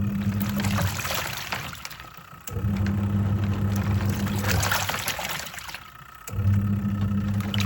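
Twin-tub washing machine in its wash cycle: the motor hums in runs of about two seconds with short pauses between, as the pulsator turns the load one way and then the other, while water and clothes slosh in the tub.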